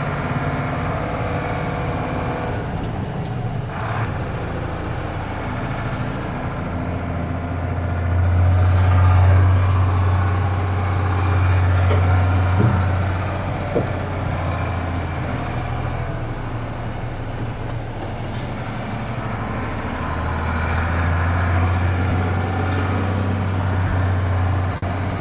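Mercedes-Benz Unimog U2450 6x6's diesel engine running with a steady low drone as the truck works over off-road terrain. It swells louder twice, about a third of the way in and again near the end, with a couple of short clicks around the middle.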